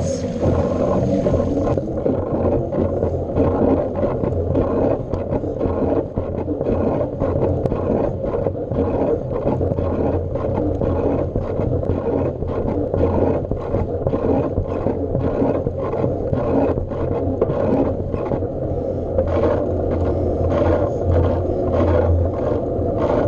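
Continuous noise of a bike in motion: a steady drone with many short clicks and rattles throughout.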